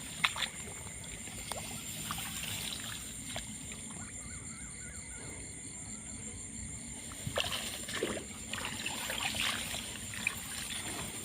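Water sloshing and trickling, with scattered small splashes and knocks, busier in the second half.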